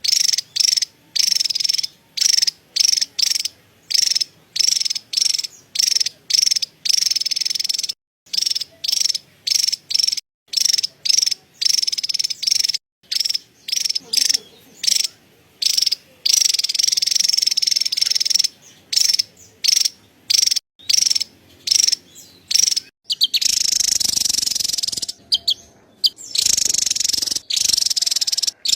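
Javan tesia giving its rapid, high, buzzy chattering call: a string of short bursts about two a second, running together into longer unbroken chatter in places.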